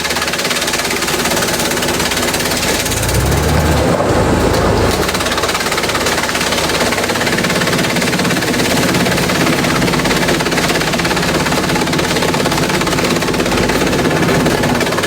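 Industrial bamboo shredder running: a loud, continuous mechanical noise over a steady motor drone.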